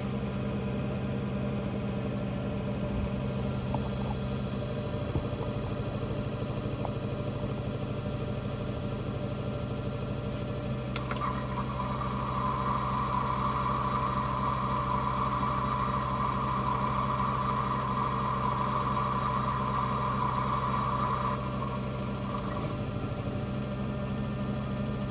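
Toy Bosch Logixx 8 washing machine running with a steady motor hum. About halfway through a click is followed by a louder, higher whirring hiss that lasts about ten seconds and then stops, while the hum goes on.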